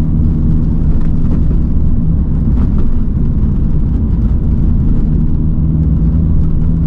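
A Mini car being driven at low speed: steady engine drone with tyre and road rumble.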